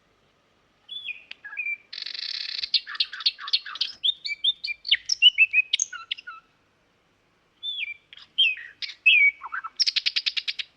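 A songbird singing varied phrases of whistles, slurred notes and a short buzzy stretch, pausing about a second between phrases. Near the end the song breaks into a fast run of a dozen or so repeated notes.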